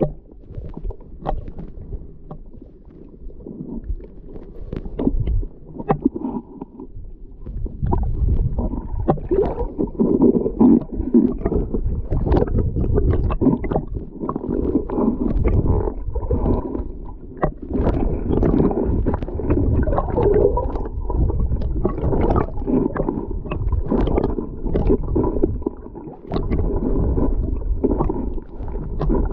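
Muffled underwater bubbling and rumbling picked up by a GoPro in its waterproof housing, getting louder about eight seconds in and dipping briefly near the end.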